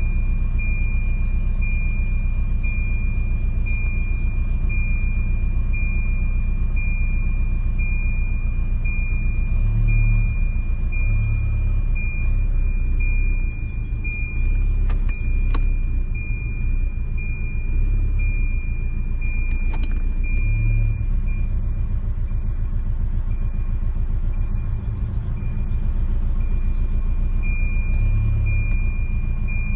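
Car engine idling roughly, an uneven low rumble that surges now and then. A thin high tone pulses on and off throughout.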